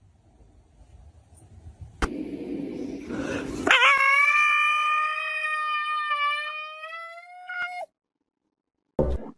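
A dog howling: one long, steady howl of about four seconds that rises slightly in pitch just before it stops, after a second and a half of noise. A short sharp sound comes near the end.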